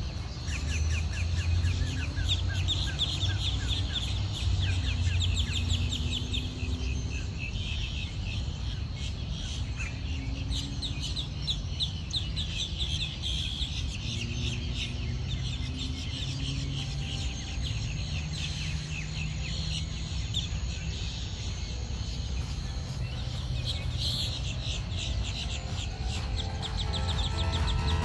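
Wild birds calling in a lakeside marsh: a dense chorus of rapid chattering calls over a steady low hum. Music swells in near the end.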